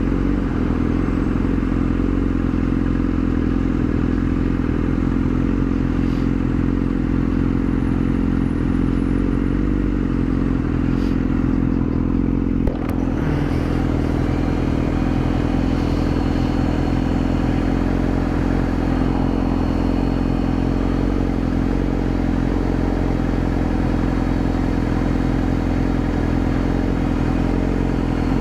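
Yamaha R6 motorcycle's inline-four engine idling steadily at a constant low pitch.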